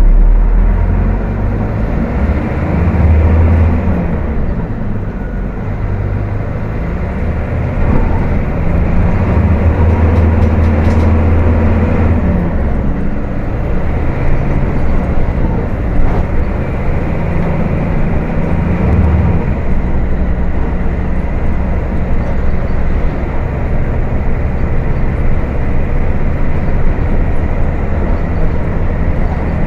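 Diesel engine of a Volkswagen 17.230 OD bus running hard at high revs while driving, its low engine note shifting up and down several times over steady road rumble.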